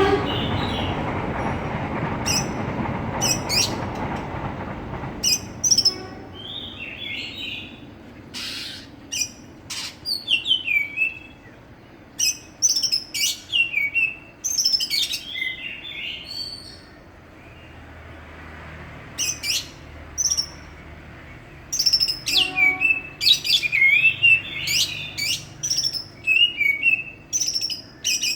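Green leafbird (cucak ijo) singing in repeated bursts of sharp, high whistles and quick chattering notes, with short pauses between phrases. A rumbling noise under the first few seconds fades out about five seconds in.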